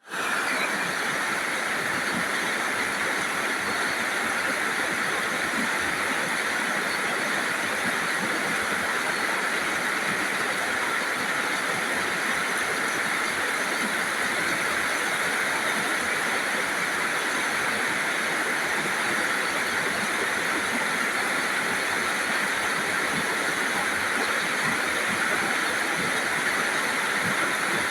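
Rain falling steadily: an even, unbroken hiss with no separate drops or knocks standing out.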